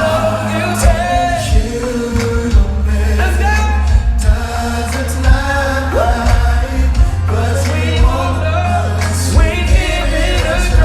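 Live R&B song played through a concert PA: singing over a heavy bass line and a steady drum beat.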